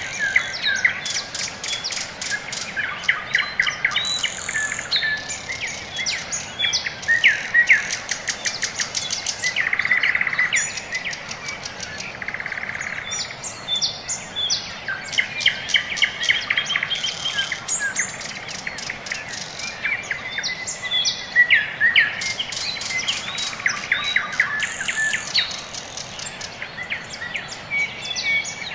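Small birds chirping and twittering, several calls overlapping, with quick trills among them.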